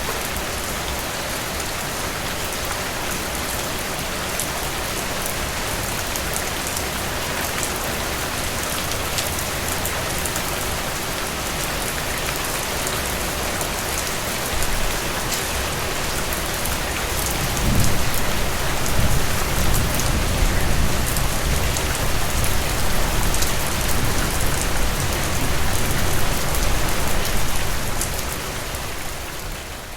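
Steady rain falling, a dense hiss with fine pattering of drops. A little past halfway a low rumble comes in underneath and carries on, easing off near the end.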